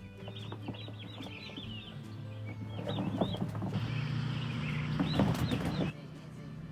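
Turkey poults peeping, a busy chorus of short high chirps, over background music. A rustling hiss comes in about halfway and cuts off suddenly near the end.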